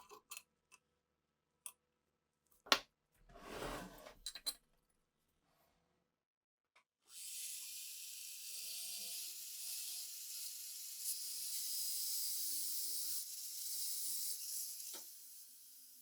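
Small metal clicks and a sharp knock of parts being handled on a workbench, with a brief scrubbing noise, then about seven seconds in a steady high hiss starts and runs on.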